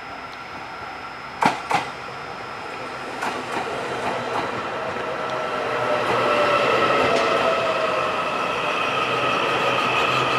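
A train moving through a railway station. There are two sharp clicks about a second and a half in, and a few lighter ones after. The running noise then grows louder, with a steady high whine over it.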